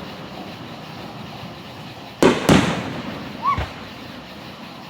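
Aerial fireworks bursting at a distance: two sharp bangs about a quarter second apart, followed about a second later by a softer thud, over the lingering rumble of earlier shells.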